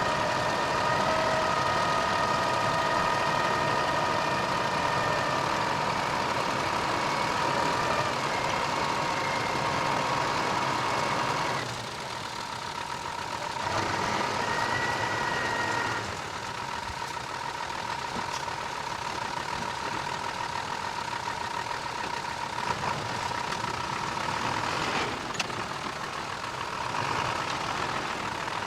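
Diesel engine of heavy earth-moving machinery running steadily, with a high whine held over it. The sound drops noticeably about twelve seconds in, swells back briefly, then settles slightly quieter.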